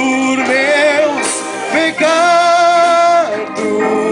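A band playing a Portuguese-language Christian worship song, with a singer drawing out long sung notes. One note is held steadily for over a second from about two seconds in.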